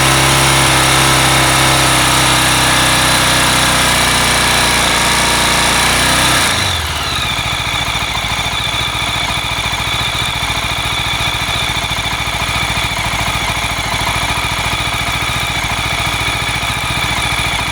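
Mash X-Ride 650's single-cylinder four-stroke engine running on fresh oil and a new filter. About six and a half seconds in the revs fall from a faster idle to a slower, slightly quieter idle, which then holds steady.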